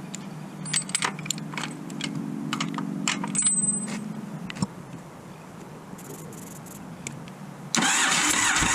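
Starter motor cranking a 1982 Yamaha Virago 750 V-twin during a spark test: a steady whir for about four seconds with sharp clicks over it, then a louder rushing burst of about two seconds near the end.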